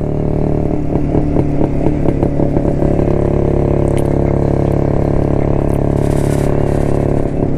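1972 Jawa two-stroke motorcycle engine running steadily under way, at an even engine speed. Many short crackles sound over the engine in the first few seconds.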